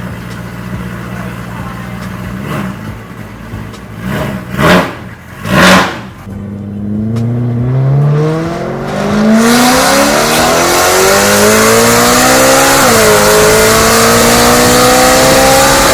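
Supercharged, straight-piped BMW M3 V8 with no muffler: idling, two sharp rev blips about a second apart, then accelerating hard, its note rising steadily with a quick drop at a gear change near the end.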